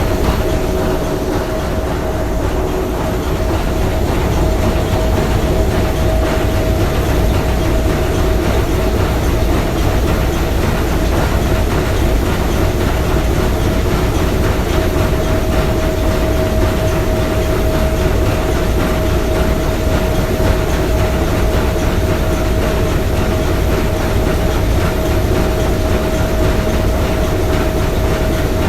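Three-cylinder triple-expansion marine steam engine running at a steady speed, a continuous mechanical din with a steady tone held above it.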